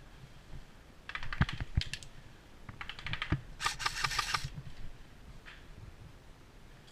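Airsoft electric gun (AEG) firing three short bursts of rapid mechanical clicking, about one, three and four seconds in, the last the longest and loudest. A few dull knocks come between the first two bursts.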